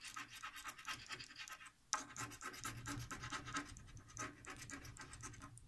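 Scratch card being scraped, its silver coating rubbed off in quick, repeated strokes, with a short pause just under two seconds in.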